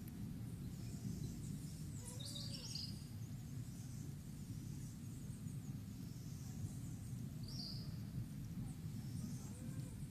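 Steady low rumble of the erupting La Soufrière volcano, heard from a distance, with a few brief bird chirps about two seconds in and again near eight seconds.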